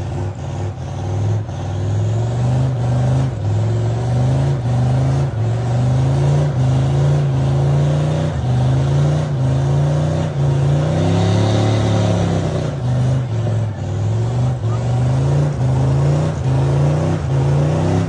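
Truck engine revving hard during a burnout, its pitch climbing and dropping back over and over, about once a second.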